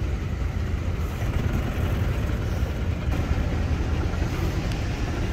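A steady low engine rumble with outdoor background noise, with no clear changes.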